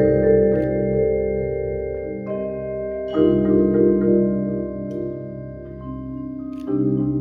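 Percussion ensemble playing mallet keyboard instruments: chords struck and left ringing, with new chords entering about two, three and nearly seven seconds in, and the held tones wavering quickly.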